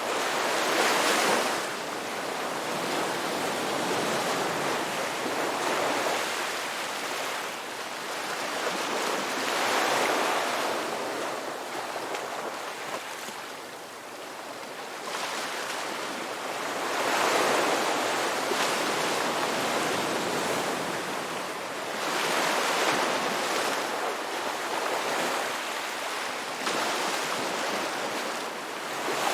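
Ocean waves breaking and washing up a beach, a steady rushing surf that swells and eases every several seconds.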